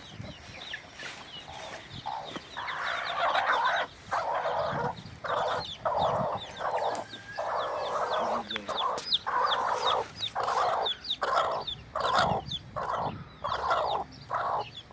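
Chickens clucking and chicks peeping with many short high cheeps, over a run of short rasping bursts about once a second.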